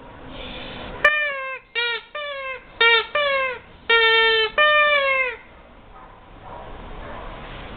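Rubber squeaky toy squeezed repeatedly: about seven squeaks in quick succession, each dipping slightly in pitch, the last couple held longer.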